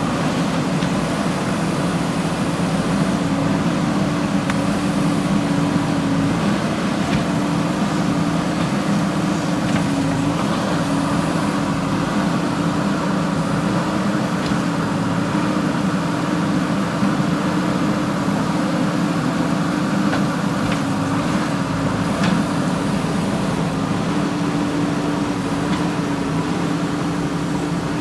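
JCB 3DX backhoe loader's diesel engine running steadily under working load, its pitch wavering slightly.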